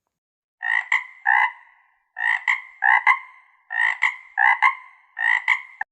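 Frog croaking: four bouts of two or three quick, rough croaks each, about one bout every second and a half.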